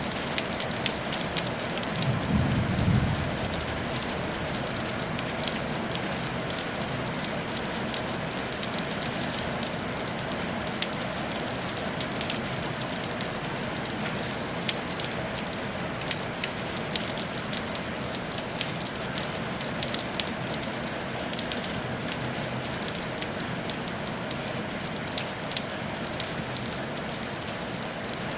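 Steady rain falling on a tile roof: an even hiss dotted with the ticks of individual drops. A brief low rumble comes about two seconds in.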